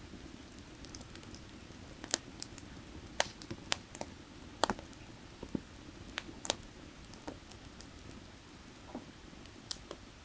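Burning firewood crackling, with irregular sharp pops and snaps, bunched together in the middle, over the steady low rush of a creek flowing nearby.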